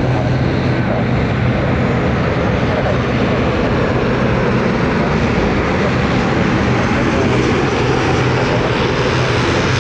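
Jet airliner engines running loud and steady, a continuous roar with a low hum underneath.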